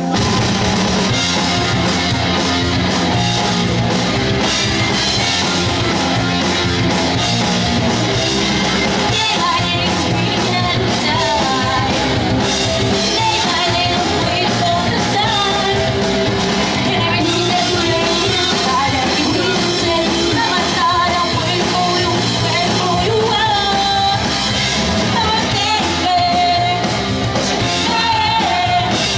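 A pop-punk band playing live: distorted electric guitars, bass and drums with a singer, at a steady loud level.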